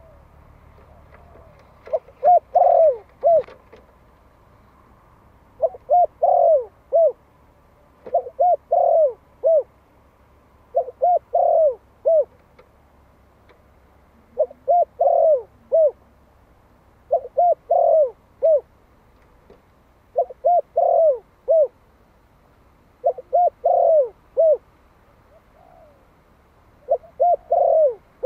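A one-year-old male Malai-strain spotted dove calling. It gives a phrase of three or four arched coos about every three seconds, nine phrases in all.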